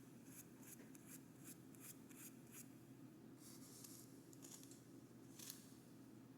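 Faint scratchy strokes of paint being spread on a sketch pad, with scattered soft clicks and a couple of brief scrapes, over a steady low room hum.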